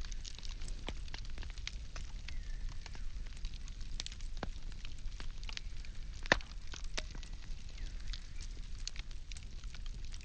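Firewood burning with a steady run of small crackles and pops, and one sharp, loud pop a little past the middle, over a low rumble.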